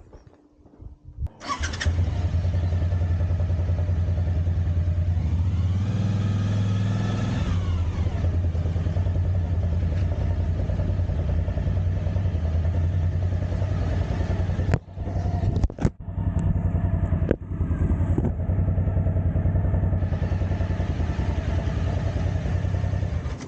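Motorcycle engine running steadily, revving up and back down once a few seconds in. A few sharp knocks and brief dropouts come near the middle.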